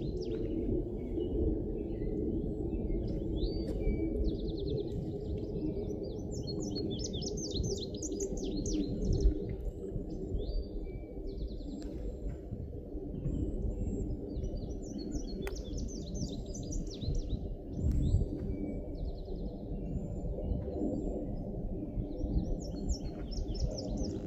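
Songbirds singing outdoors in short, repeated high trilled phrases every few seconds, over a steady low rumble.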